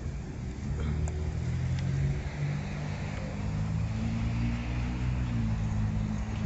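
Road traffic: a motor vehicle's engine passing close by, its low note building and rising slightly in pitch as it speeds up, then fading near the end.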